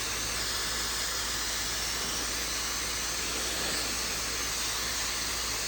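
Maxodo 1400-watt high-speed hair dryer blowing steadily while drying wet hair: an even, airy hiss whose tone shifts slightly as the dryer is moved.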